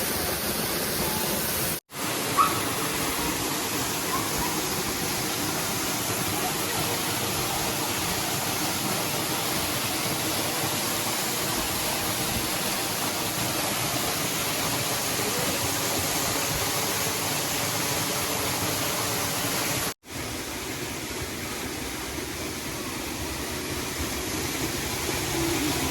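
Steady rushing of a waterfall, cutting out abruptly twice for a moment, with a single sharp click just after the first break.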